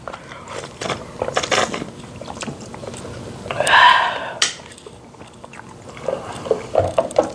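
Close chewing and mouth sounds of people eating rice and fried chicken, with a few sharp clicks and crunches, and a brief louder breathy sound near the middle.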